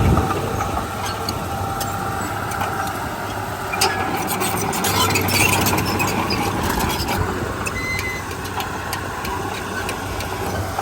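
Heavy diesel earthmoving machinery running steadily, with a cluster of sharp clicks and rattles about four to seven seconds in.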